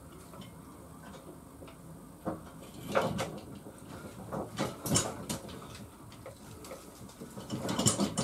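Scattered clicks and light knocks of hand tools and metal parts being handled at a moped's swingarm pivot, a handful of separate knocks over several seconds.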